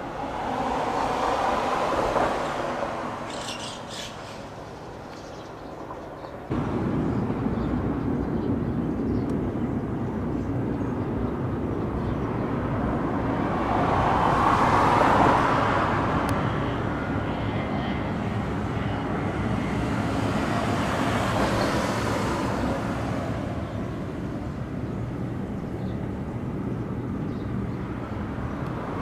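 Outdoor background noise with vehicles passing, each swelling and fading, several times over. The overall noise steps up suddenly about six and a half seconds in.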